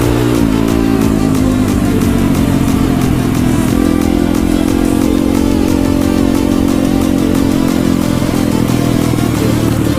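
Pit bike engine running; its pitch falls as the revs drop about half a second in, then holds steady.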